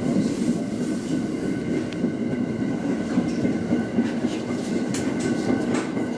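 Local passenger train running along the track: a steady rumble of wheels on rail, with a few faint clicks of passing rail joints.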